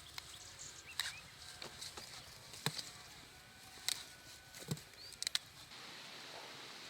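Scattered sharp knocks and clicks, five or six of them, with a few short chirps between; near the end they give way to a steady hiss.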